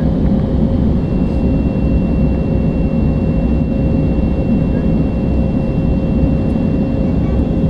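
Steady engine and airflow noise inside an airliner cabin, a deep even rumble with a faint hum, as the aircraft comes in to land. A thin high whine joins in about a second in and holds steady.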